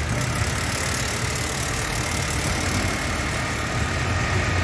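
Mitsubishi Mirage's small three-cylinder engine idling steadily under the open hood, with the air conditioning switched on.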